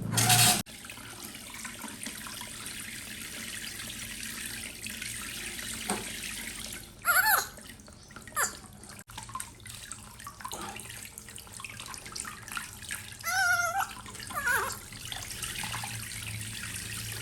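Tap water running steadily into a sink or basin, with a brief loud burst right at the start and a few short high-pitched cries about seven and thirteen seconds in.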